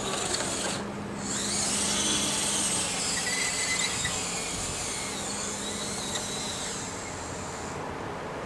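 Small electric motor of a radio-controlled RC4WD excavator running under load, a steady whine with a low hum beneath. The whine comes up about a second in and drops away near the end.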